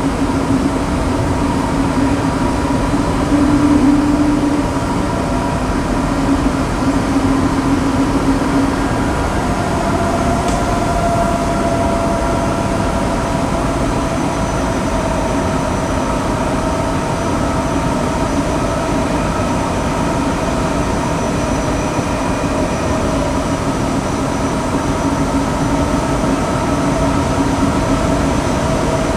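Tokyo Metro 7000 series subway car running between stations, heard inside the car: a steady rumble of wheels on rail under several steady whining tones from its Hitachi two-level IGBT VVVF inverter and traction motors, which drift only slowly in pitch.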